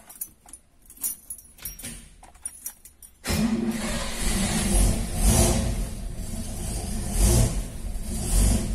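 Light clicks and key jangling, then about a third of the way in a Ford Maverick's engine starts up suddenly and runs, rising and falling in level a few times.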